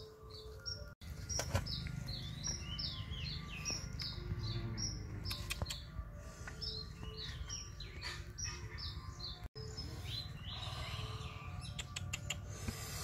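Small birds chirping rapidly, a dense run of short, quickly falling high chirps, over a low steady rumble, with a few sharp clicks near the end.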